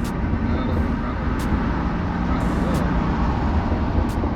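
BMW F82 M4's twin-turbo straight-six engine running steadily under way, with a constant low engine tone over a broad hiss of tyre and road noise. Short sharp ticks recur every second or so.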